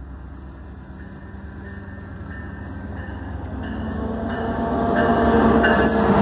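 Passenger train approaching, growing steadily louder. A few steady tones rise over its rumble in the last few seconds.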